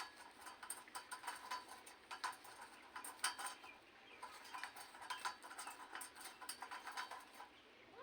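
Rose-ringed parakeet making light, irregular clicks and taps, with a few faint short chirps mixed in; the clicking dies away near the end.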